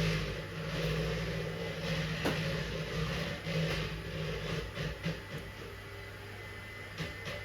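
Wood fire burning in a fireplace stove: a steady low rush with scattered sharp crackles and pops from the burning alder, birch and oak logs, one clear pop about two seconds in. A faint steady hum and a thin high tone run underneath.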